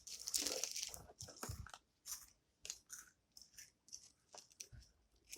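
Plastic snack wrappers crinkling and rustling as they are handled, in short irregular crackles that are densest in the first second and thin out into scattered clicks.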